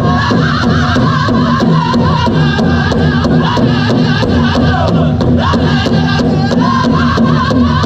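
Powwow drum group singing a chicken dance song, voices in wavering high chant over a big drum struck in unison at a steady quick beat of about four strokes a second.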